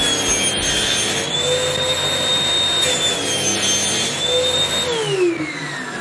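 Electric power tool motor running at full speed with a steady high whine, then switched off about five seconds in and winding down, its pitch falling as it slows.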